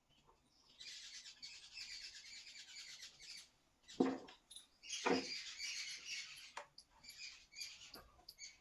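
Birds chirping rapidly and densely in two spells, with two short low thuds between them.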